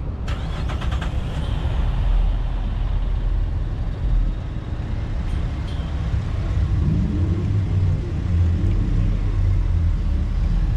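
A vehicle engine running with a steady low exhaust rumble, growing heavier about two-thirds of the way through.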